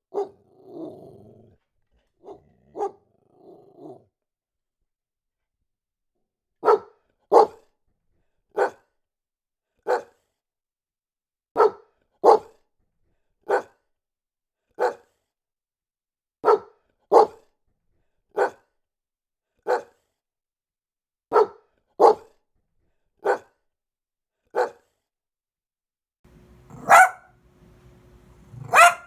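A dog barking. A few barks and a low growl come first, then a short pause. Then a long run of sharp barks in a regular repeating pattern: a double bark followed by two single barks, about every five seconds. Near the end two louder barks come over a steady low hum.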